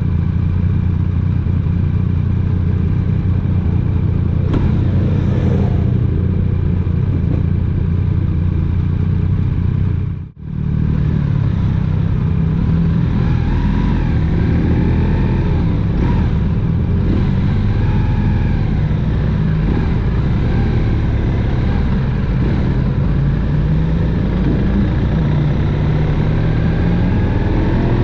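Motorcycle engine running steadily while riding, with road and wind noise. The sound drops out briefly about ten seconds in, and the engine pitch rises near the end.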